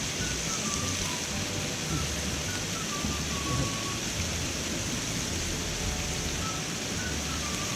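Steady rush of a clear mountain stream flowing over rocks.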